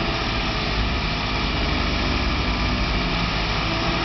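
Two BMW cars idling side by side at a start line: a steady, unchanging engine rumble and hiss.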